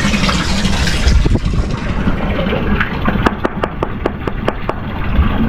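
Strong wind buffeting the microphone with a steady low rumble. Partway through comes a quick run of about a dozen light clicks or knocks, roughly five a second.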